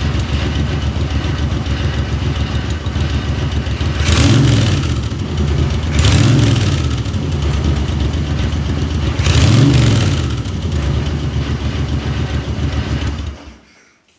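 A Moto Guzzi motorcycle engine runs, freshly rebuilt at the top end with new piston rings. It is revved up three times and settles back each time, then shuts off about a second before the end.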